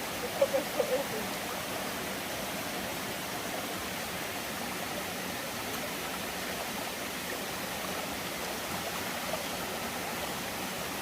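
Steady rush of water running down a stream and small waterfall, an even hiss with no change throughout. A few brief faint sounds come through under a second in.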